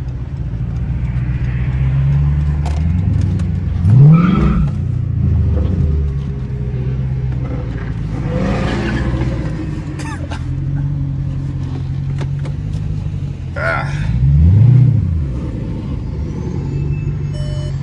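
Straight-piped Dodge Charger R/T's Hemi V8 running at highway speed. The engine pitch rises sharply and falls back twice, about four seconds in and again near fourteen seconds, and these are the loudest moments.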